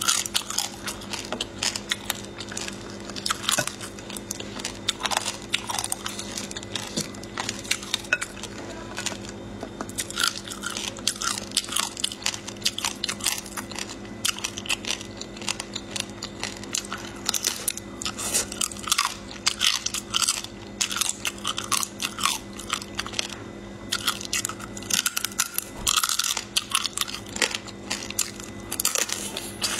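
Close-up crunching and chewing of crab claws with the shell on: sharp cracks and crackles of shell breaking between the teeth, with wet chewing between them.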